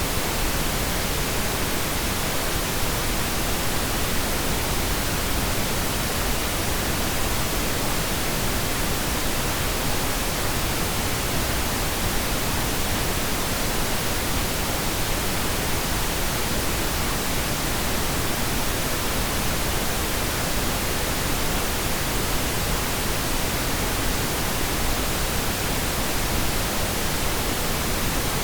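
Steady pink noise: an even, unchanging hiss with no distinct events.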